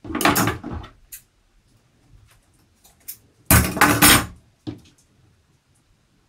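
Handling noise from paper craft materials and a roll of cotton tape on a wooden tabletop: two short bursts, each under a second, the second about three and a half seconds after the first, with a few faint clicks between.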